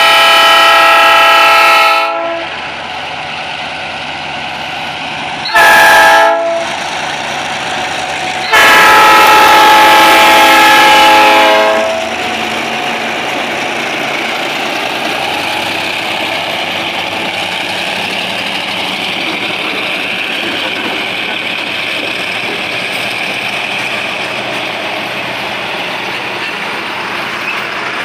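Diesel freight locomotives sounding their multi-tone air horn three times, long, short and long, on the approach to a level crossing. The lead engines then pass close by working under load, followed by the steady rolling rumble of loaded hopper wagons on the rails.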